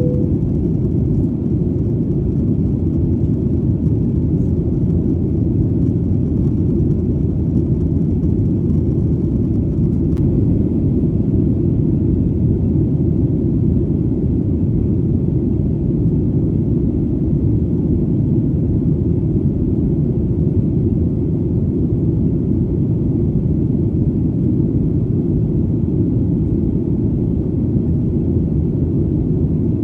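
Airplane engine drone: a steady, deep rumble with its sound lying low and nothing high above it, unchanging throughout.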